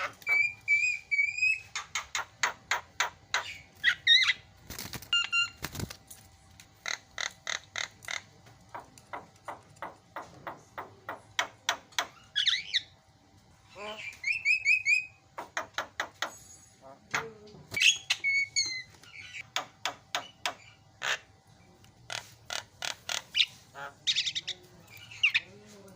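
Javan myna (jalak kebo) singing: long runs of sharp clicking notes, about three to four a second, broken by whistled calls and short trills.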